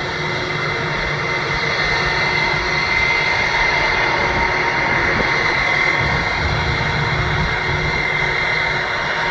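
Airbus A321's twin turbofan jet engines running at taxi power: a steady whine over a low rumble, growing slightly louder through the middle.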